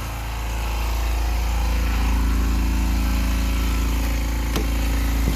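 Husky 4.5-gallon silent air compressor running steadily as it fills its tank, its level dipping briefly at the start before settling back to an even hum. A single short click about four and a half seconds in.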